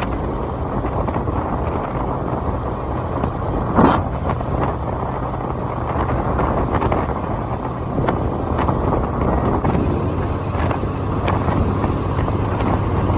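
Wind buffeting the microphone over a motorcycle's steady engine hum while riding at speed. There is one brief louder burst about four seconds in.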